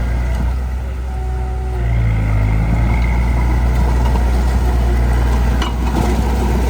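Heavy diesel engine of earth-moving equipment running steadily, with a brief dip and then a pick-up in engine speed about two seconds in.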